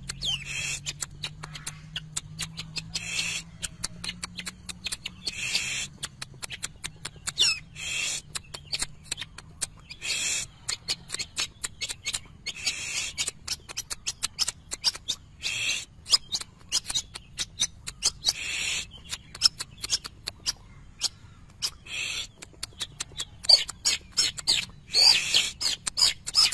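Long-tailed shrike (cendet) singing hard: a rapid, continuous run of sharp clicking notes broken every second or two by brief harsh, raspy calls.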